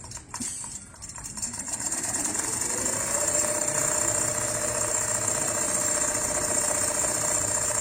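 Automatic CNC sewing machine starting up: a few clicks in the first second, then its motor speeds up with a rising whine over about two seconds and settles into a steady running hum.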